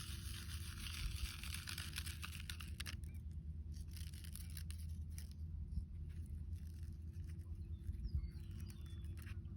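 Wildflower seeds being shaken out of their packet and scattered over soil: a dry rustling patter of small seeds, densest for the first three seconds, then thinning to scattered ticks.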